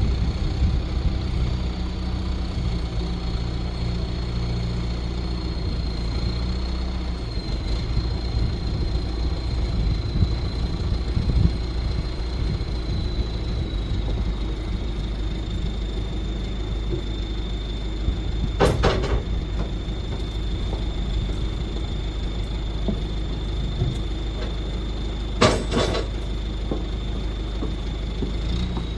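A vehicle engine running steadily under a constant high whine. Two brief sharp noises cut in, about two-thirds of the way through and again near the end.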